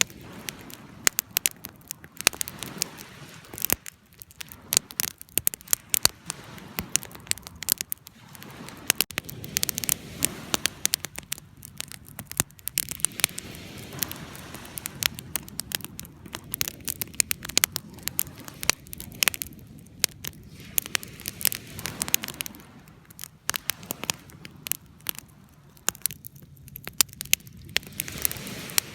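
Wood fire crackling: dense, irregular pops and snaps over a soft, steady low rush of burning.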